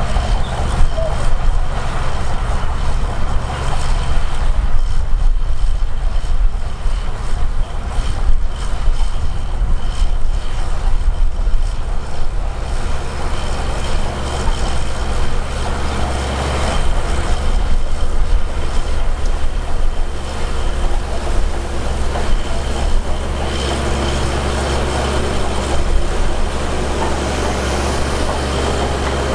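Heavy diesel earthmoving machinery running under load: a steady, loud low engine rumble with frequent short knocks and clanks.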